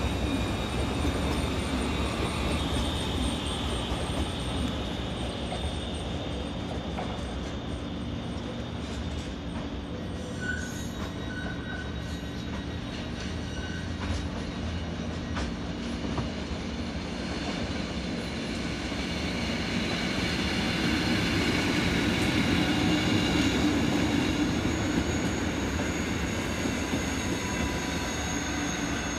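Electric regional trains running through a station: a steady rail rumble as one train moves off, then a BLS regional train approaching, its rumble growing louder from about two-thirds of the way in. High steady tones from wheel squeal ride over the rumble.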